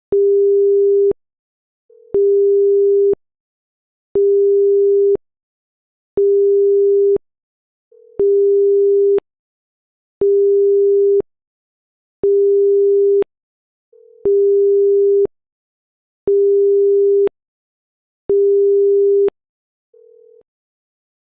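Electronic alert beeping: a steady, pure mid-pitched tone sounding for about a second every two seconds, ten times. A shorter, fainter, slightly higher pip comes just before every third beep.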